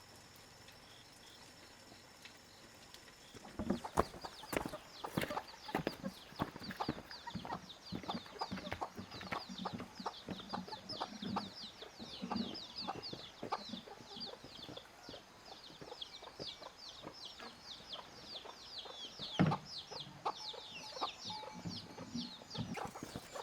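Chickens: low clucking under a rapid stream of short, high, falling cheeps, with scattered sharp taps, starting a few seconds in.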